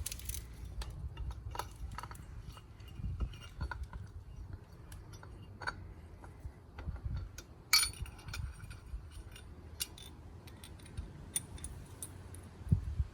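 Small steel engine parts, a washer among them, being handled and fitted during clutch reassembly: light metallic clinks and clicks, with one sharper click about eight seconds in, over a low rumble.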